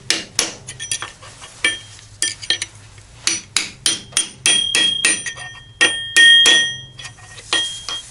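Hammer tapping on metal parts during transfer case oil seal work: a quick series of sharp strikes, a few a second. In the middle of the series many strikes ring out, with the loudest ones near the end.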